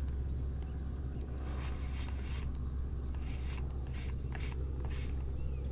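Steady low wind rumble buffeting the camera microphone, with a few faint light ticks in the middle.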